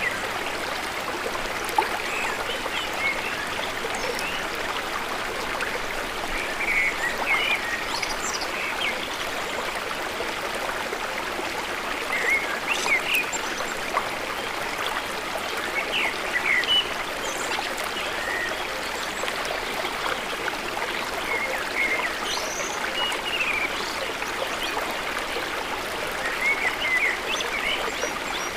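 River water flowing steadily, with short, high bird chirps scattered every few seconds.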